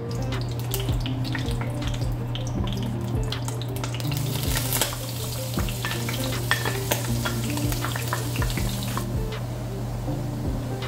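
Butter and oil sizzling and crackling in a stainless steel frying pan. About four seconds in it grows louder and brighter as minced garlic is added and starts frying.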